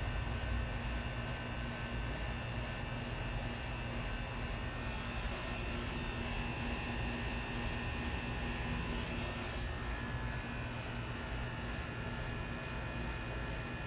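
Steady low hum and buzz with a few constant tones, unchanging throughout.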